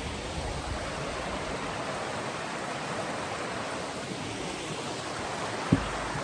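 Creek water rushing steadily, an even hiss. A single low thump near the end.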